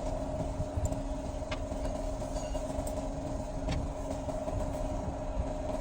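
A steady mechanical hum with a low rumble, and a few short light clicks on top.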